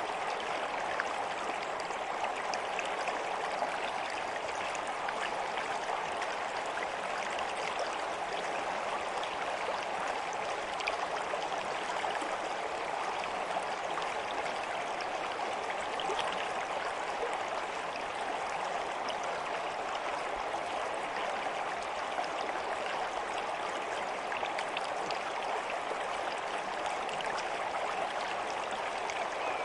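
A stream's water running steadily, with a continuous even rush flecked with small splashes.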